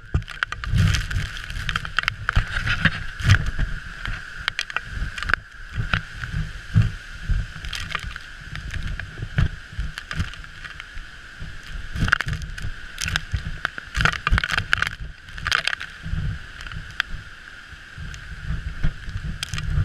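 Storm wind buffeting the microphone and heavy seas pounding a ship: an irregular low rumble with many sharp knocks, over a steady high-pitched hum.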